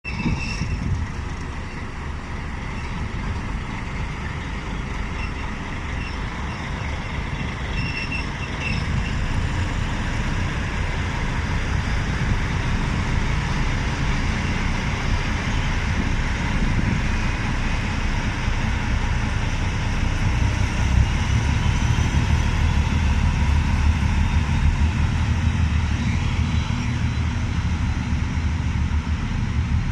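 Two diesel locomotives running with a steady low engine rumble that grows louder about a third of the way in and is loudest around two-thirds through, as they pass close by.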